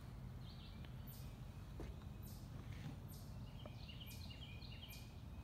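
Faint birdsong: a series of short high-pitched chirps about a second apart, with a quick run of lower chirps a little past halfway, over a steady low hum.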